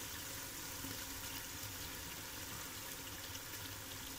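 Tomatoes, onions and green chillies frying in oil in a large aluminium pot, a steady, faint sizzling hiss.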